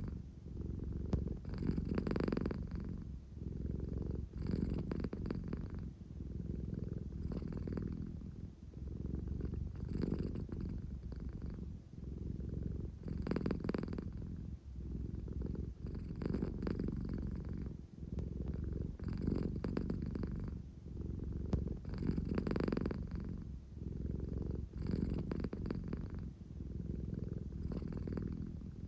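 American Shorthair cat purring steadily, the purr swelling and easing with each breath roughly every two and a half to three seconds. It is the drowsy, contented purr she makes when sleepy and wanting closeness.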